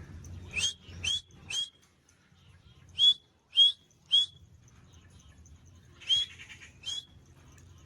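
Ringneck parrot (rose-ringed parakeet) giving short, sharp, rising calls: three in quick succession, three more about two seconds later, and two near the end.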